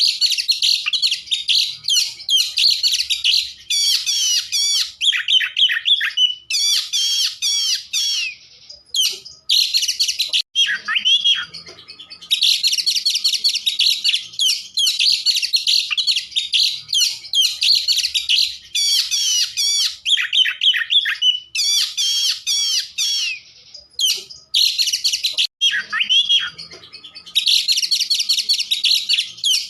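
Oriental magpie-robin (kacer) singing a long, rapid, varied song of high chirps, trills and whistles, broken twice by short quieter spells of a few slurred notes.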